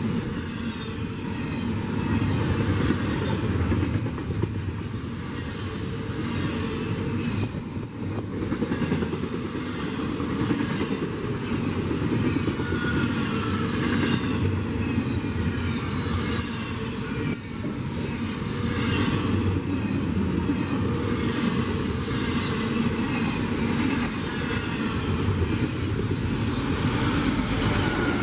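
A double-stack intermodal container train passes close by, its well cars' steel wheels rumbling and clacking steadily over the rails. Short falling whines come from the wheels now and then.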